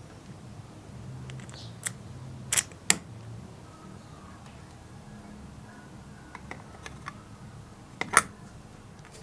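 Scattered sharp clicks and taps of small hard objects, loudest twice about two and a half to three seconds in and once about eight seconds in, over a faint low hum.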